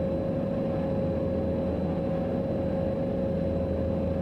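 Cessna 182's piston engine and propeller droning steadily in the cockpit, a constant low hum with a steady higher tone riding above it.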